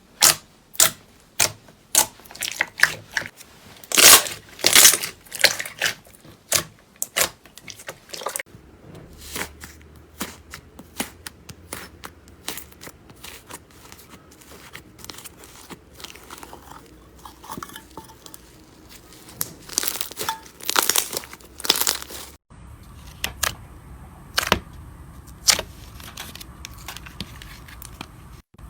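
Slime being worked by hand, giving a string of sharp, irregular clicks and pops with crinkly tearing sounds. The pops come thickest over the first several seconds and again around twenty seconds in. The background changes abruptly about eight and twenty-two seconds in.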